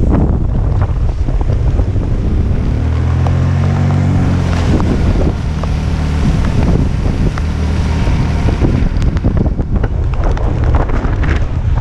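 Typhoon wind buffeting the microphone with a heavy, gusting rumble. Between about three and eight seconds in, a motor vehicle's engine hum rises and falls under it as the vehicle passes.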